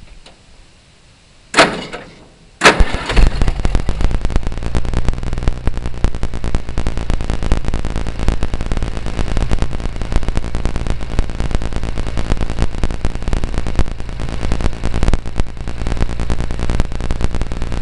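Oliver 1550 tractor's gasoline engine started on a freshly fitted ignition coil: a brief burst of starter cranking, then it catches about two and a half seconds in and runs steadily.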